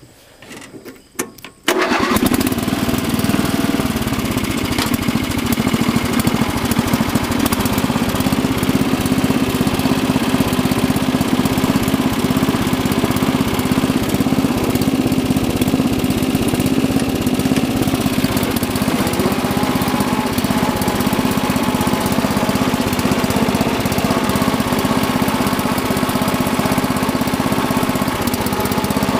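A 1985 Murray lawn tractor's 11 hp engine, already warm, is started: a few short clicks, then it catches under two seconds in and runs at a steady speed.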